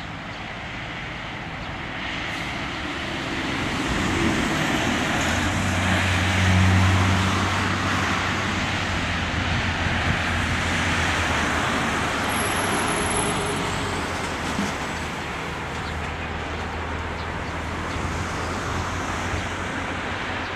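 Airbus A340-300's four CFM56 jet engines at takeoff power: a broad rushing jet noise with a low steady hum underneath. It swells to its loudest about six to seven seconds in, then eases off slowly.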